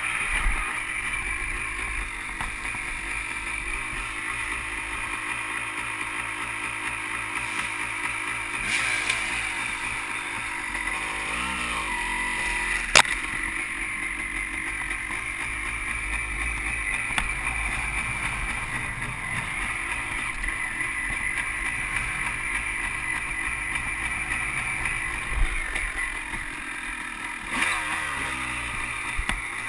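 Dirt bike engine running along a trail, mostly at a steady pitch, with the revs rising and falling a few times. There is a sharp click about halfway through.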